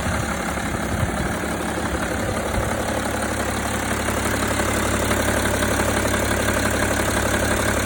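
BMW M57N2 straight-six turbodiesel idling steadily, with a distinct knocking around the turbocharger whose cause the owner does not know.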